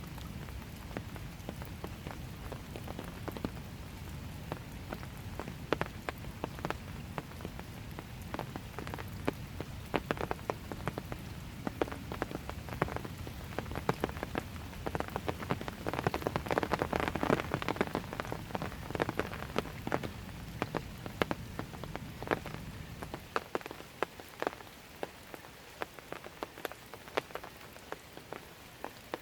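Steady light rain, with many separate drops striking close by as sharp taps, thickest around the middle. A low, steady rumble underneath stops about three quarters of the way through.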